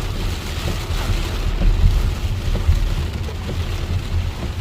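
Heavy rain falling, with scattered drop ticks over a steady low rumble.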